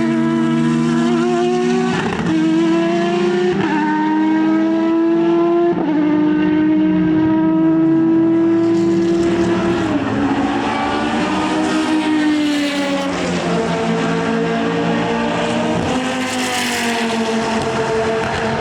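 Racing car engine running hard, climbing in pitch and cutting back sharply at three upshifts in the first six seconds. Later the pitch falls away as the car slows or passes, then it settles.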